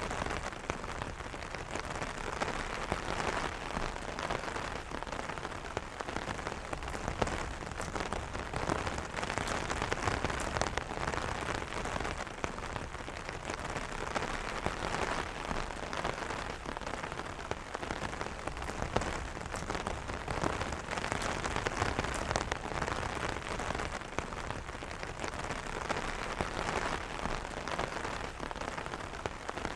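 Steady light rain pattering on an open umbrella's fabric canopy, a dense patter of drops with no thunder.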